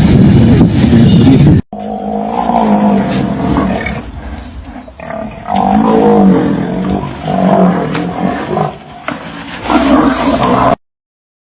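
Large wild animal growling and roaring, with a sudden break under two seconds in, followed by a series of drawn-out, wavering calls that stop abruptly just before the end.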